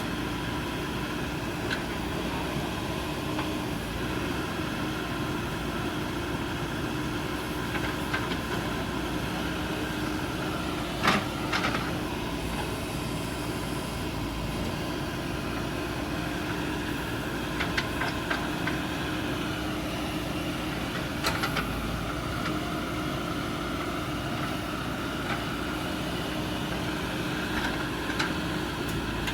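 Diesel engine of a backhoe loader running steadily, with a few sharp knocks, the loudest about a third of the way in.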